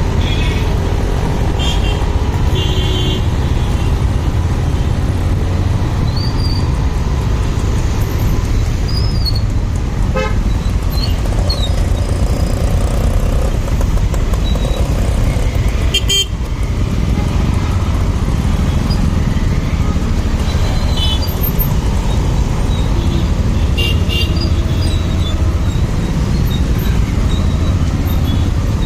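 Motorcycle riding in traffic: a steady low rumble of engine and wind throughout, with short horn toots from surrounding vehicles several times.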